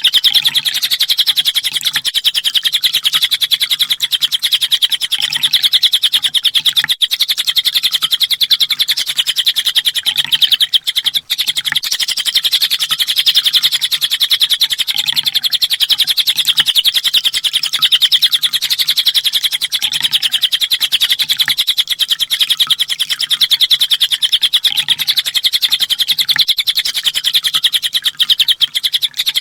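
Kolibri ninja sunbird singing a continuous, rapid, high-pitched twittering song, many notes a second. The song breaks off briefly about 11 seconds in.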